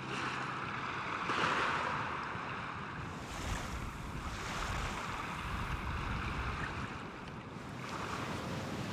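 Surf washing onto a beach with wind, the noise of the waves swelling and falling in slow surges every few seconds.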